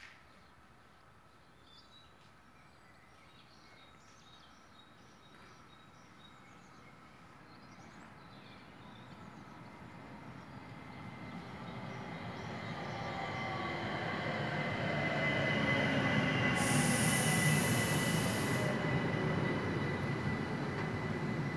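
A red-and-grey ÖBB electric multiple unit pulls in to the platform. It is faint at first and grows steadily louder over about ten seconds. As it draws in there is a falling whine from its motors slowing and a steady high squeal from the wheels and brakes, with a sudden hiss lasting about two seconds a few seconds before the end.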